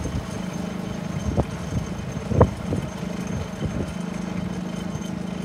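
Propane-fuelled Harbor Freight Predator 3500 generator running at a steady pitch, cold-started in freezing weather, with a few short thumps over it.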